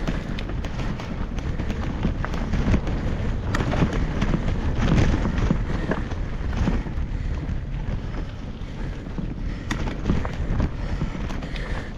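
Wind buffeting the microphone over a continuous rumble, with scattered clicks and rattles, as from a loaded bicycle being ridden.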